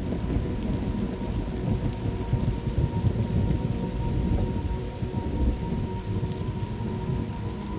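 Recorded thunderstorm: a long roll of thunder rumbling over steady rain, easing off a little toward the end.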